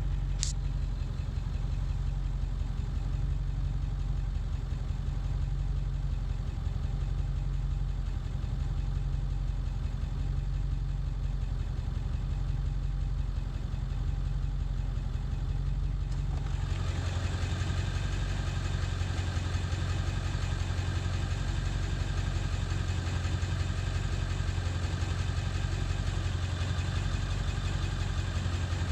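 Ford 7.3 Powerstroke V8 turbo-diesel idling, still running rough after its injection control pressure (ICP) sensor was replaced. A sharp click comes just after the start, and about sixteen seconds in the sound suddenly turns brighter and fuller.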